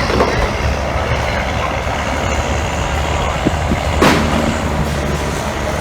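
Fishing boat's engine running with a steady low drone under a constant wash of noise, with a single sharp knock about four seconds in.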